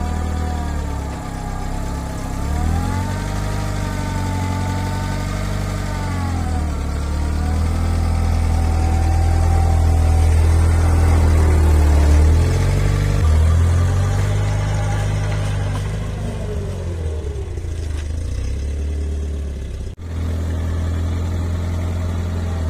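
Engine of a home-built articulated off-road camper running, its pitch rising and falling repeatedly as the revs go up and down. There is a brief break about twenty seconds in.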